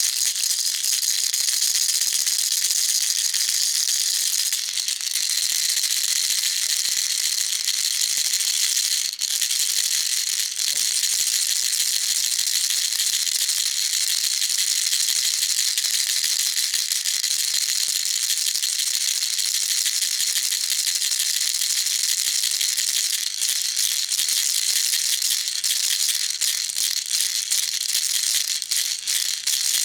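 Baby rattle shaken continuously, a dense, steady, high-pitched rattle of small beads without pauses.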